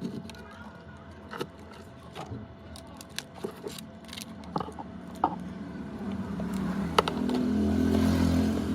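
Small sharp clicks and taps of hand tools on a phone's parts during disassembly. In the second half a passing motor vehicle rises and is loudest near the end.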